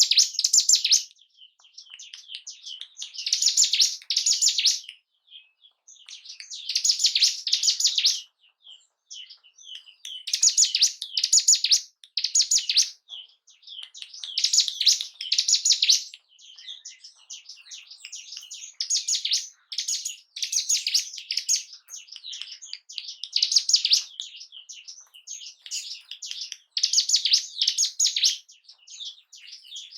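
Hill prinia (ciblek gunung) song: rapid, high chattering phrases in loud bouts about every four seconds, with quieter chatter in between.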